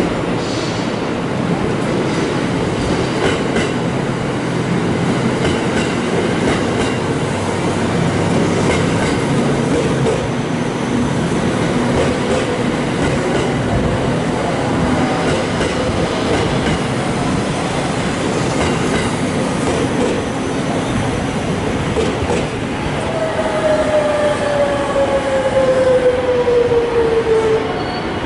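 An electric limited express train running past at low speed, with steady rolling noise and the clack of its wheels over rail joints. Near the end a single whine falls slowly in pitch, then cuts off.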